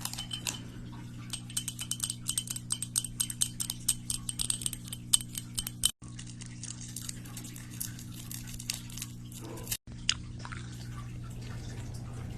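Rapid run of light clicks and clinks of small hard objects, as in ASMR tapping, thinning out after about five seconds, over a steady low hum.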